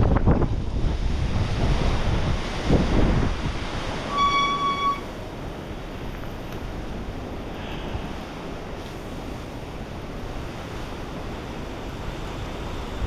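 Wind rushing over the microphone of a camera on a bicycle riding downhill, with heavy gusts for the first few seconds, then a steadier, quieter rush. A short high beep sounds once a little past four seconds in.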